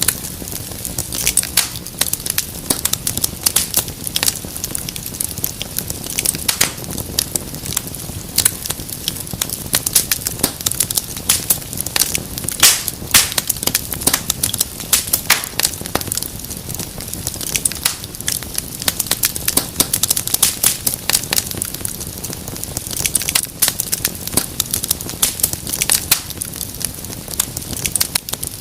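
Wood fire crackling and popping: dense, irregular sharp snaps over a steady low rumble of flames.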